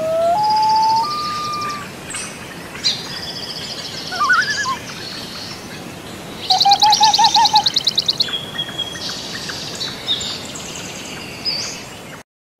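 Songbirds singing, more than one at once: clear whistled notes, high chirps and a fast trill about halfway through. The birdsong cuts off abruptly near the end.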